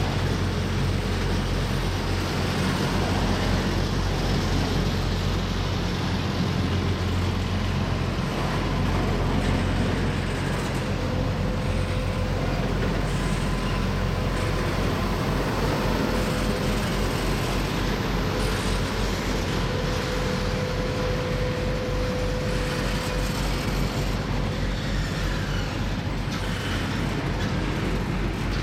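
Loaded double-stack intermodal well cars rolling past close by, a steady rumble and rush of steel wheels on the rails. A faint steady whine comes in through the middle stretch.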